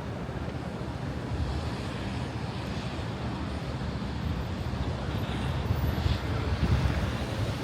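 Steady low rumble of outdoor city background noise, swelling a little about six seconds in.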